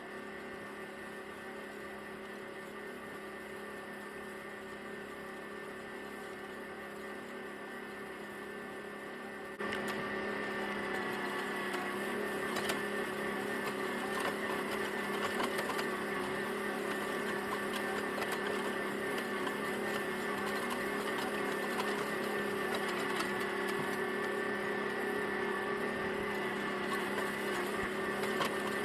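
International Harvester 1086 tractor's six-cylinder diesel engine running at a steady pitch while pulling a hay rake, with a constant drone. About ten seconds in the sound jumps abruptly louder and stays there.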